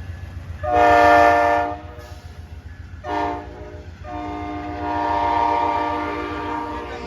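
Amtrak P42 diesel locomotive sounding its horn as it departs: a long blast, a short one, then a long one of about three seconds, over the steady low rumble of the diesel.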